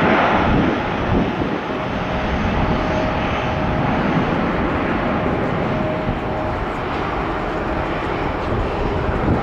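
Jet engines of a departing Airbus A321-200 at takeoff thrust: a loud, steady rushing roar, with a faint steady whine inside it from about two seconds in.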